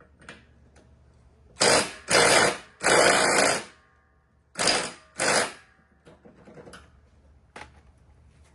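A power tool run in five short bursts, each under a second long, the third the longest.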